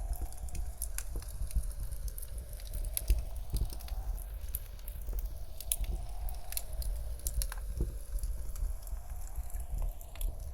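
Wood fire crackling, with many irregular sharp pops and snaps, over a steady low rumble of blizzard wind.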